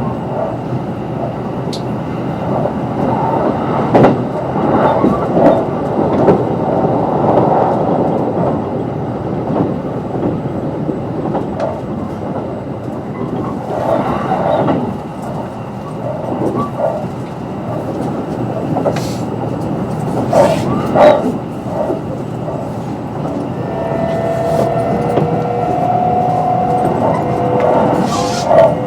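Onboard running sound of a Kintetsu 22600 series electric train with Mitsubishi IGBT-VVVF control: a steady rumble of wheels on rail, broken by occasional sharp knocks. Near the end a steady hum in two pitches comes in from the traction motors.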